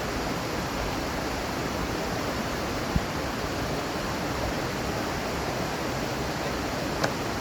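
Steady, even rushing noise outdoors, broken by two short sharp clicks: one about three seconds in and one near the end.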